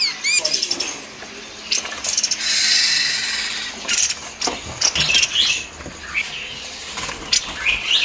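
Caged songbirds giving short, high chirps on and off, with a few sharp clicks and a noisy rustle lasting about a second, starting two and a half seconds in.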